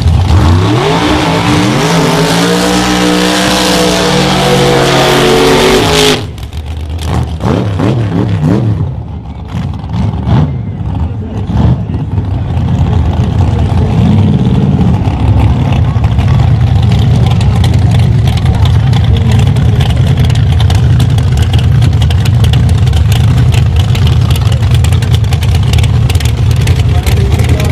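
Drag-racing cars' engines at full throttle in a launch, the engine note sweeping up and down with each gear change, cutting off suddenly about six seconds in. Then come scattered, quieter noises, and from about halfway on a steady low engine rumble.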